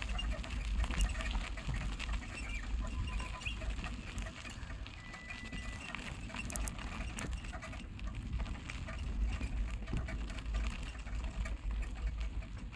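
A bicycle being ridden: wind buffeting the microphone in a low, uneven rumble, with frequent small clicks and ticks from the moving bike.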